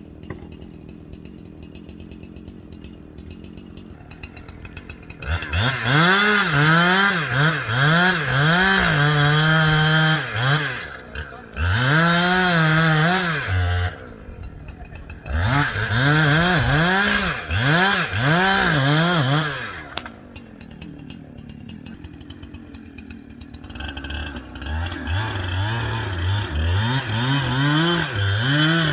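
Two-stroke chainsaw idling, then revved up and down in quick repeated bursts, now and then held at high speed for a second or so. It drops back to idle twice between spells of revving.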